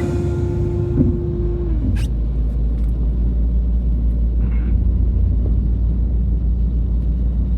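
Heavy vehicle or road-works machinery engine running with a steady low rumble.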